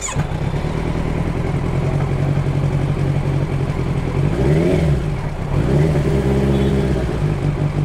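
Motorcycle engine running at a raised, unsteady idle, the revs swelling up and dropping back twice near the middle. The engine is revving on its own, which the riders put down to the choke or too much fuel going in.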